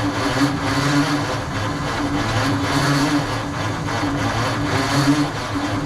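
The engine of a 1948 Ford F5 truck being cranked over by its starter with a steady, pulsing rhythm, not firing, drawing air in through the carburetor.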